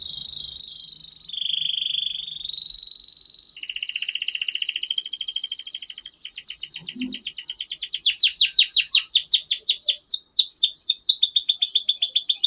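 Domestic canary singing: a held whistled note, then long, fast trills of rapidly repeated notes that shift to a new pattern every few seconds.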